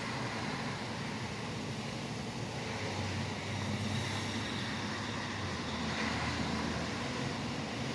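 Steady rain with highway traffic rumbling past, the rumble swelling a few seconds in and again near the end.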